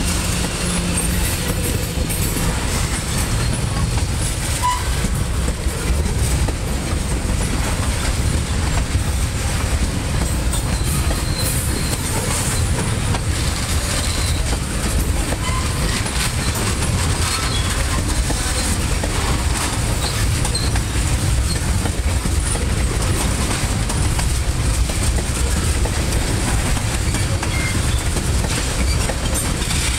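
Freight train tank cars rolling past, a steady heavy rumble with the wheels clacking over the rail joints.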